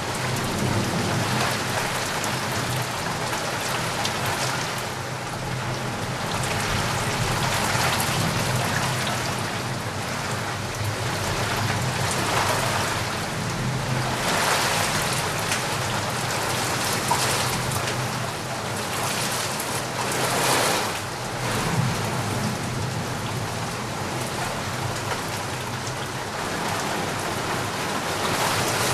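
Steady heavy rain, swelling and easing every few seconds, with a low rumble underneath.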